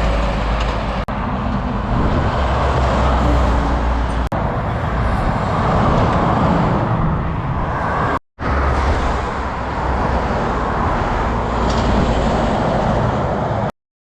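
Road traffic noise with heavy vehicles running steadily, low engine rumble and tyre noise, broken by brief edit cuts about one and four seconds in and a short gap about eight seconds in; it cuts off abruptly near the end.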